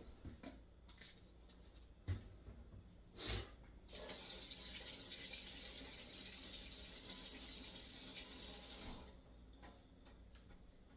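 Water tap running into a sink for about five seconds, turned on about four seconds in and shut off abruptly near the end; a few short knocks and clicks come before it.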